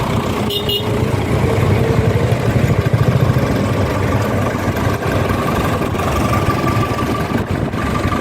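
Tractor engine running steadily at idle. A thin, steady whine joins about six seconds in.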